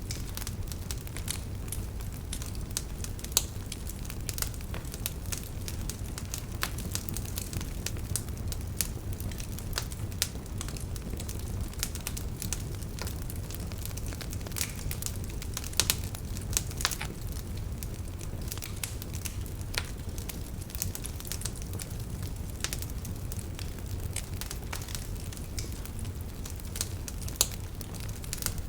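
Wood fire burning in a fireplace, with a steady low rumble of the flames and irregular sharp crackles and pops throughout, a few of them louder.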